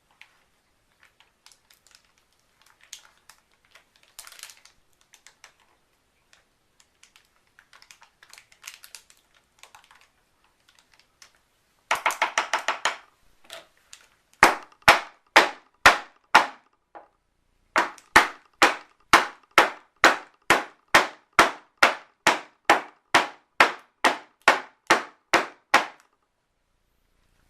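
Faint scattered ticks, then a fast burst of clicks about halfway through, followed by a long regular run of loud sharp clicks, about two a second, that stops shortly before the end.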